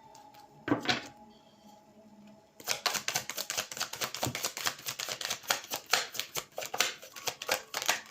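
Tarot cards being handled and shuffled: a single soft knock about a second in, then from about two and a half seconds a quick, steady run of crisp card snaps, several a second.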